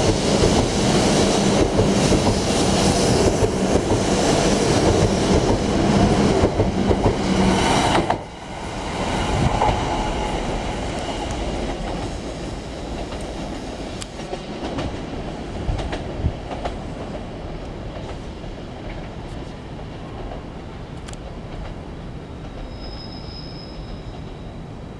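W7 series Shinkansen train running past close by, a loud, steady rush of wheels and traction noise that cuts off abruptly about eight seconds in. After that, a quieter, fading rumble of the train moving slowly over curved track and points, with a few clicks and a brief high squeal near the end.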